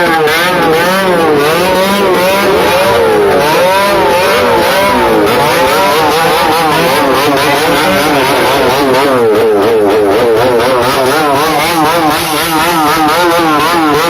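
Several motorcycles with loud open aftermarket 'brong' exhausts revving over and over together, their engine notes rising and falling roughly once a second in an overlapping din.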